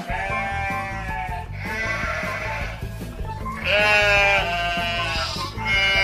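A flock of sheep bleating, four or five long wavering bleats one after another, over background music with a steady low beat.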